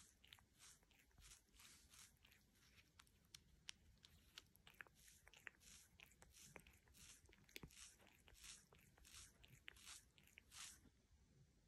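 A cat grooming itself, its rough tongue rasping against its fur in faint, quick, repeated licks, about two a second, with small clicks between them. The licking stops shortly before the end.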